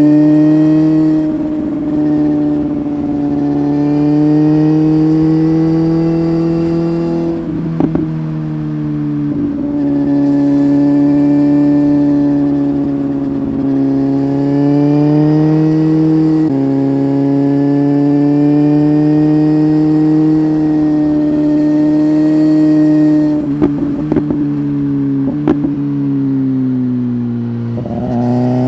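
BMW S1000RR inline-four running through an Arrow aftermarket exhaust at moderate, fairly steady revs under way. The pitch creeps slowly up and then drops off suddenly several times, with a few short sharp cracks around the drops in the second half.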